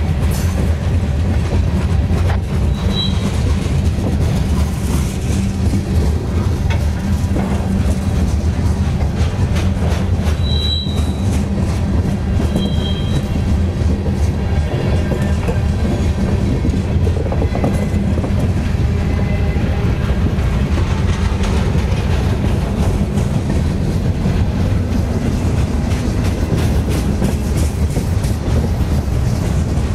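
Freight cars of a CSX manifest train (covered hoppers and boxcars) rolling past close by: a steady heavy rumble of steel wheels on rail with frequent wheel clicks. Brief high wheel squeals come about three seconds in and again around ten to thirteen seconds in.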